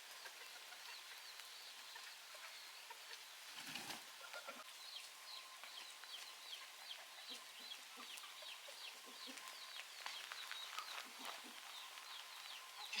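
Chickens calling: a fast run of short, high cheeping calls that drop in pitch, with a few lower clucks. There is a brief soft knock about four seconds in.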